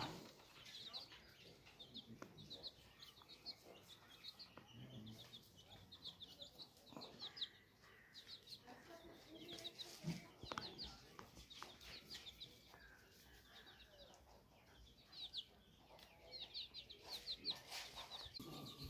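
Faint, repeated short high bird chirps in quick runs of three to five, with faint lower calls between them.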